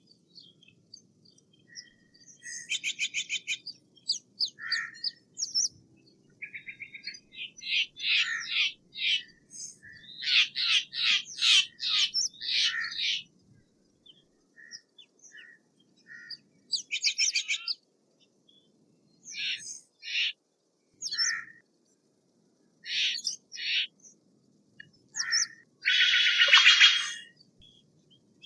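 Steller's jay calling in bursts of rapid repeated notes, each burst about a second long with short gaps between, the loudest burst near the end.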